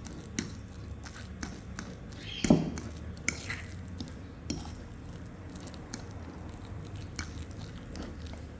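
Kitchen handling sounds of mashed sweet potato dough being worked in a bowl: soft squishing with scattered light clicks of a utensil against the bowl, and one louder knock about two and a half seconds in.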